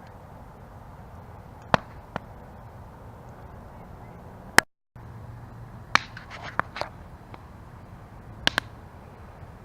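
Campfire burning with a low, steady rush and sharp crackles and pops from the wood, in a quick cluster just past the middle. A moment of total silence cuts in just before the middle.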